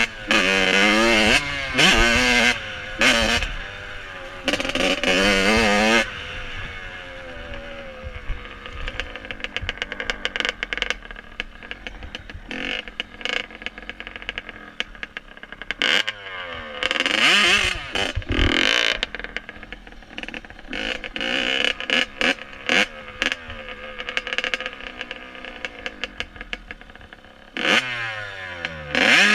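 Dirt bike engine revving in several short bursts, then running lower for about ten seconds. Two more rev-ups follow, one partway through and one near the end.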